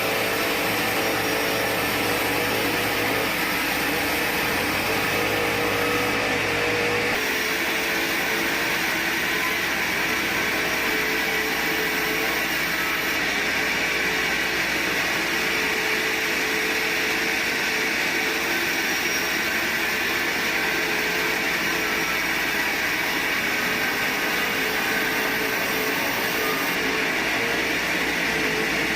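Sawmill machinery running steadily: a continuous mechanical rush and whine, with a low hum that drops away about seven seconds in.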